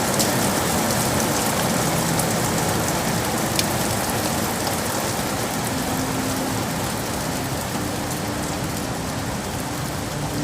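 Steady rain falling on hard surfaces, a dense even hiss with a few sharper drop hits. Faint low steady tones come in about halfway through.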